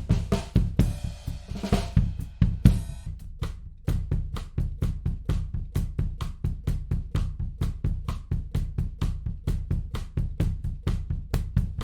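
Recorded drum kit playing a steady beat, with kick, snare and cymbals, played back through a tape-emulation plugin. There is a bright cymbal wash early, then quick evenly spaced hits at about four a second.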